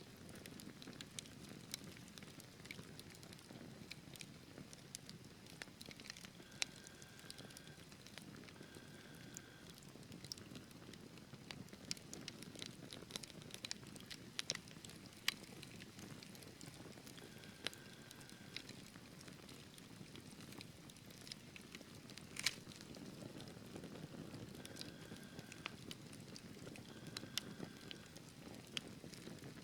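Wood fire burning in a fireplace: logs crackling with many small sharp pops over a steady low rush of flames, one louder pop about three quarters of the way through. A few faint short high tones come in pairs.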